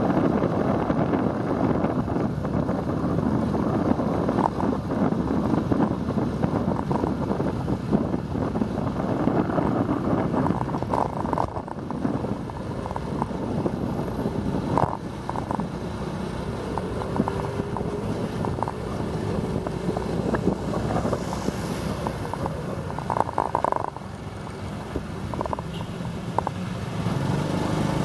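Wind rushing over the microphone of a moving motorbike, mixed with engine and street-traffic noise; it eases a little near the end.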